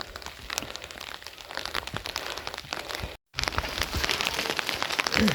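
Steady rain falling, a dense run of small drop hits over a noisy hiss. The sound cuts out completely for a moment about three seconds in, then comes back a little louder.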